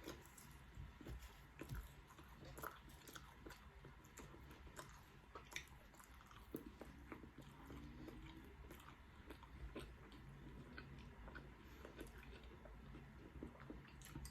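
Faint, close-miked eating: irregular small crunches and clicks of food being bitten and chewed.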